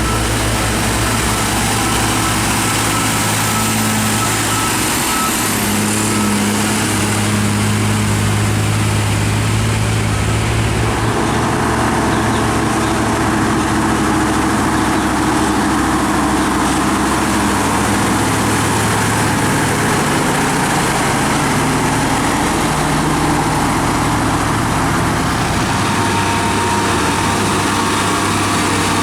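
Heavy diesel truck engines running steadily, with the engine note changing about eleven seconds in.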